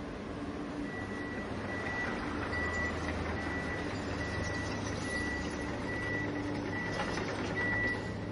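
Remote-control toy construction vehicle's electronic reversing beeper, a steady high beep repeating about every 0.7 seconds starting about a second in, over the toy's steady low engine hum.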